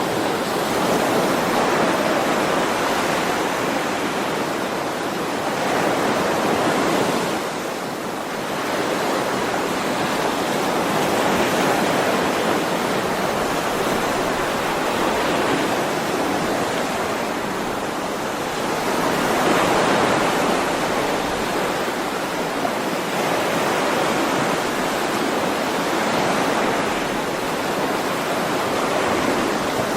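Ocean waves washing onto a shore, a continuous rushing surf that swells and eases every few seconds.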